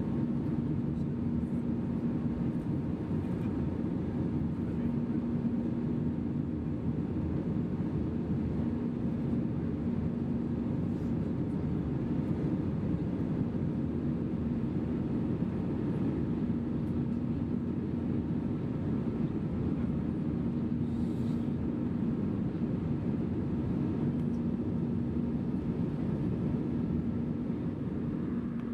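Cabin noise of an Airbus A320 in the climb: a steady roar of the jet engines and airflow, with a low hum that swells and fades slightly.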